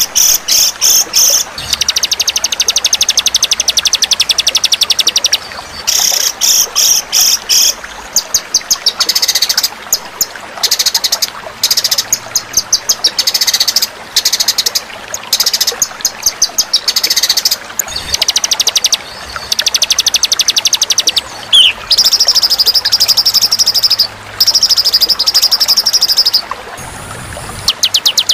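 Songbird masteran recording: loud, fast, high-pitched chattering trills, each burst lasting a second to a few seconds, with short pauses between them.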